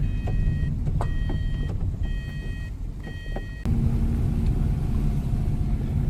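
Car's seat-belt warning chime, a tone repeating about once a second over the engine and road rumble in the cabin, warning of an unfastened seat belt. It stops a little over halfway through, and a steady low hum with road rumble carries on.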